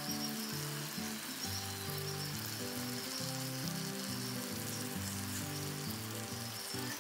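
Food frying in hot oil in a pan, sizzling steadily, under background music of sustained melodic notes.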